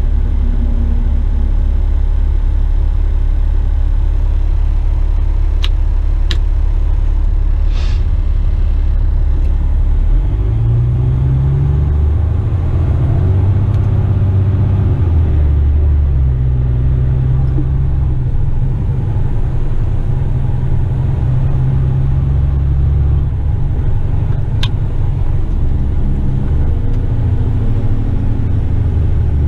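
Western Star tipper truck's heavy diesel engine running with a low rumble; about ten seconds in the engine note rises and keeps shifting as the truck works under load. A few faint clicks sound over it.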